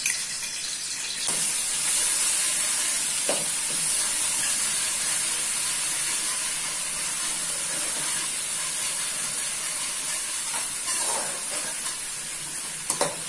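Chopped ginger and garlic sizzling in hot ghee in a kadai, a steady hiss that grows louder about a second in, with a few light knocks.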